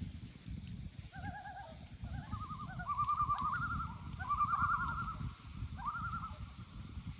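Common loons giving their wavering tremolo call, several overlapping calls at different pitches about a second in through to near the end, over a steady low rumble.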